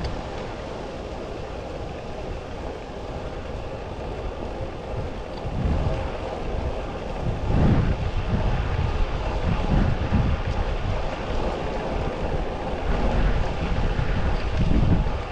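Wind buffeting the microphone of a moving road bike rider, a steady rushing with low gusts that grow stronger about halfway through.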